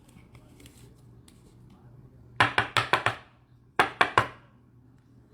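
Trading cards being handled on a table, sharp taps and clicks: a quick run of about five, then three more about a second later.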